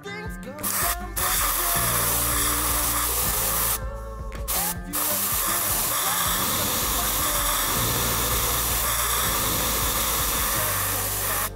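Aerosol deodorant spray hissing in long, steady bursts, broken off for about a second near four seconds in, over background music.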